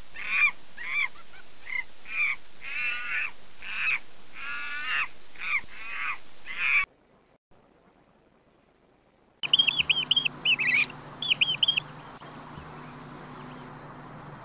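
A monkey calling: about a dozen short, arching cries in quick succession. After a brief silence, a short run of very high-pitched squeaks.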